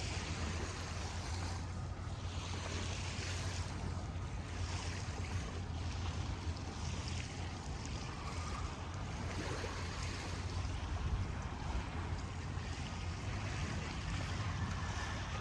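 Riverside ambience on the bank of the Rhine: water washing against the shore in soft swells over a steady low rumble.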